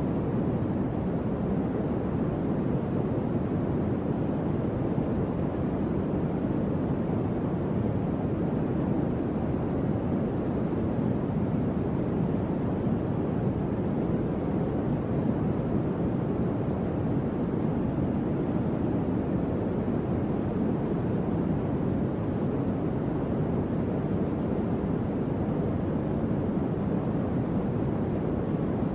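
Electric fan running steadily: an even, low airy whoosh with no change in level.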